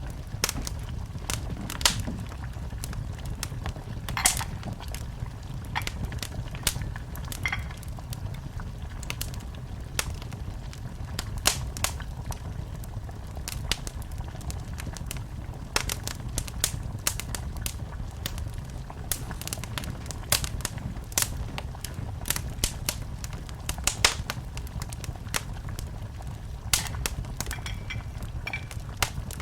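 Wood fire in a fireplace crackling, with irregular sharp pops and snaps over a low, steady rumble of the flames, and now and then a faint, brief thin whistle.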